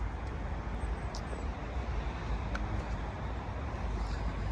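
Steady low outdoor rumble and hiss, even throughout, with no distinct events.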